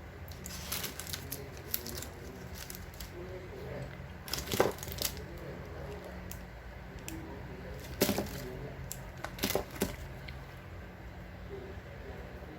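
Snack packaging being handled: plastic wrappers crinkling and tearing, with many small clicks and three louder knocks.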